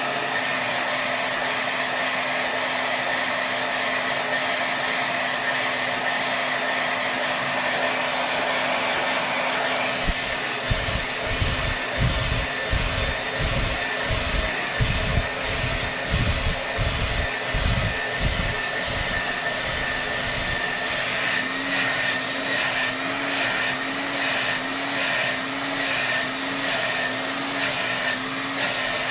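Hair dryer blowing at full power: a steady rush of air with a constant motor whine. Around the middle, slow low throbs pulse through it for several seconds. Later, the whine wavers up and down in a regular rhythm.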